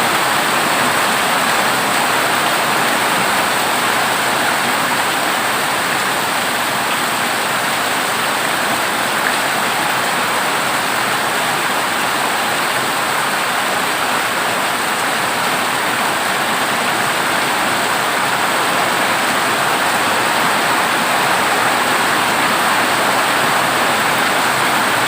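Heavy rain falling on a corrugated zinc roof, a steady, dense hiss with no separate drops or thunder standing out.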